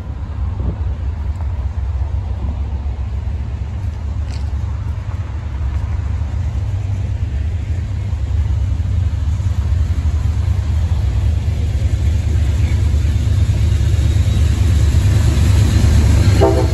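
Amtrak passenger train led by a GE P42DC diesel locomotive approaching, a low rumble that grows steadily louder. Just before the end the locomotive's horn starts to sound.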